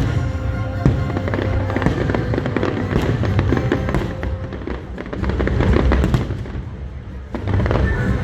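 A fireworks display: dense, rapid crackling bursts over a steady low rumble, easing briefly near the end before building again. Music plays alongside.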